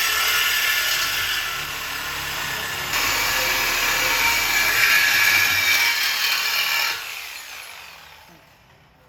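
Power tool cutting through the car's steel exhaust pipe during a muffler delete: a loud, high-pitched metal-cutting whine that grows louder about three seconds in, then stops about seven seconds in and winds down over a couple of seconds.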